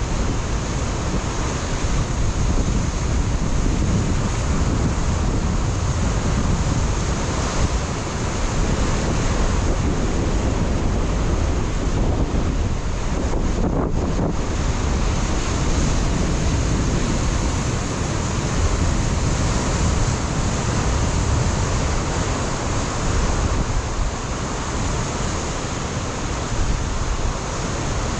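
Ocean surf breaking on a rocky coastline, a continuous heavy rush of water with wind buffeting the microphone.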